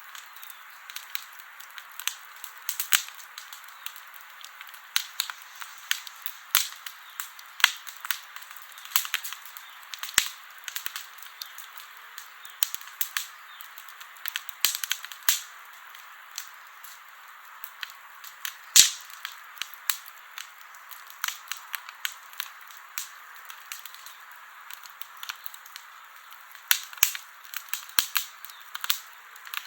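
Campfire burning wood: a steady hiss with frequent sharp pops and snaps, the loudest a little past halfway.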